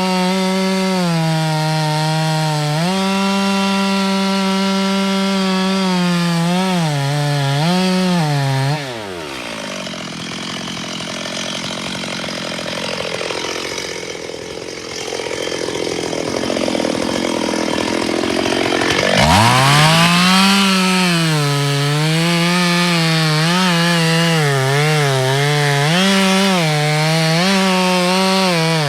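Chainsaw engine running at high revs, its pitch dipping and recovering as it cuts wood. About nine seconds in the revs fall away and a rougher, noisier sound takes over for about ten seconds, then the engine revs quickly back up and keeps cutting.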